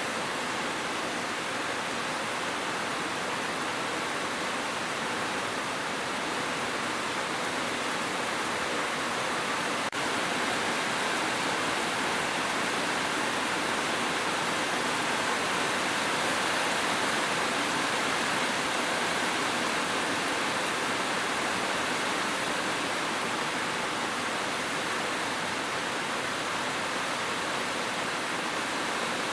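Steady heavy rain, a dense, even hiss with no single drops or gusts standing out.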